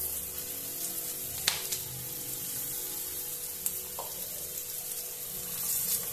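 Aloo paratha sizzling in butter on a hot pan, a steady frying hiss. A sharp click comes about a second and a half in, and a short ringing tap around four seconds in.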